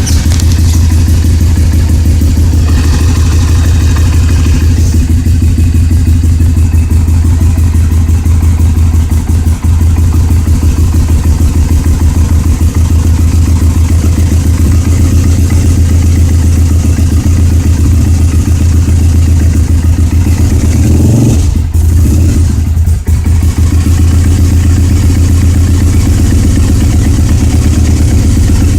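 Honda CRF dirt bike's single-cylinder four-stroke engine running steadily on half choke, warming up just after a cold start. Its note changes briefly about three quarters of the way through.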